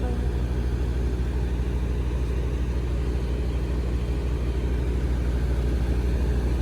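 Semi truck's diesel engine running steadily, a low even rumble.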